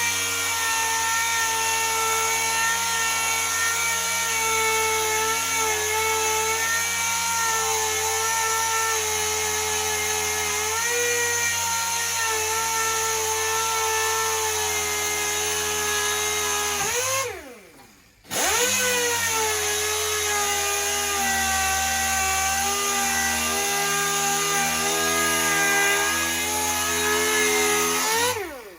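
Power sander running steadily with a motor whine as it sands paint off a car's steel door jamb. About 17 seconds in it winds down, stops for about a second and starts up again, then winds down near the end.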